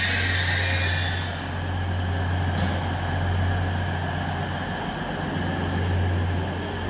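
Class 180 Adelante diesel multiple unit moving through the station: a steady low engine drone, with a broad hiss that dies away about a second in.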